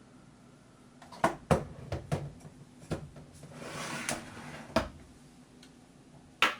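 Measuring spoon scooping and levelling coconut flour: several sharp knocks and clinks against the container, with a scraping swish around the middle.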